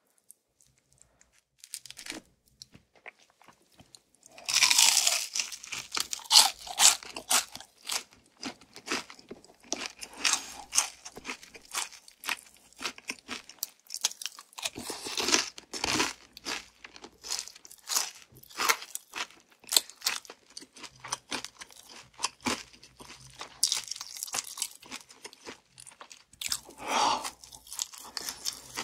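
Close-miked crunching and chewing of crispy fried chicken: dense, rapid crackles of the crust being bitten and chewed. The crunching starts about four seconds in, after a near-quiet start with a few faint clicks.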